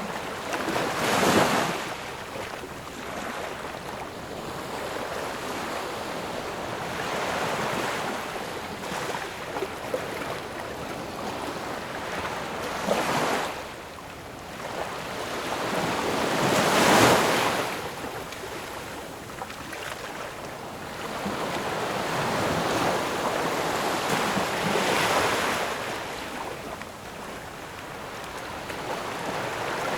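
Ocean waves breaking and washing ashore, a steady surf noise that swells into a louder crash every few seconds, about four distinct breakers.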